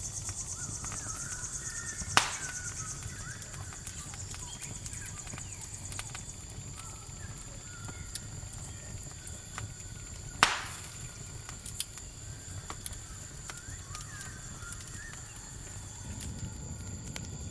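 Campfire crackling, with two loud sharp pops about two seconds and ten seconds in, over the steady high chirring of crickets.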